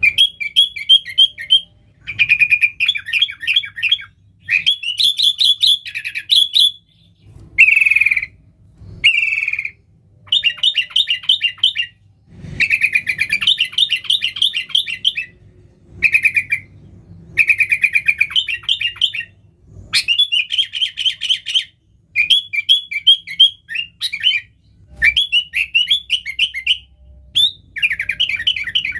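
Sooty-headed bulbul (kutilang) singing loudly in rapid chattering bursts of quick, bubbling notes, each phrase a second or two long with short pauses between. This is the bulbul's full, busy song, used as a call to draw in wild bulbuls.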